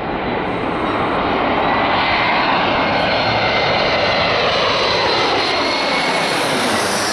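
Jet airliner passing close by, its engines loud and steady with a high whine, the noise sweeping lower in pitch as it goes past.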